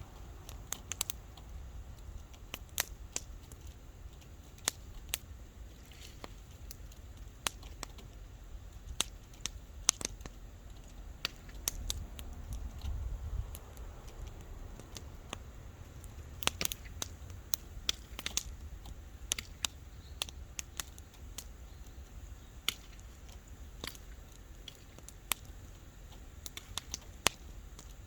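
Wood campfire crackling: irregular sharp pops and snaps, sometimes several in quick succession, over a low steady rumble.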